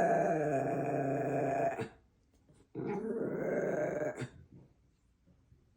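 Two long, drawn-out growl-like vocal sounds. The first ends about two seconds in; the second starts just under three seconds in and lasts about a second and a half.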